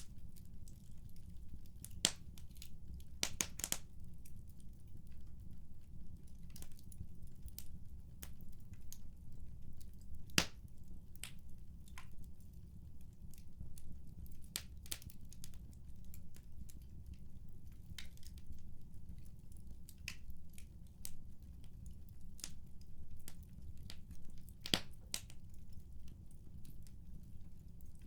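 Wood fire in a fireplace crackling, with irregular sharp pops over a steady low rumble; the loudest pops come about 2, 3.5, 10 and 25 seconds in.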